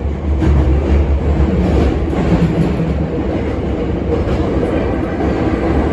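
Hankyu 8300 series electric train running in a subway tunnel: a steady low rumble of traction motors and wheels on the rail, with faint steady tones from its Toyo Denki silicon-carbide VVVF inverter and a few rail-joint clicks.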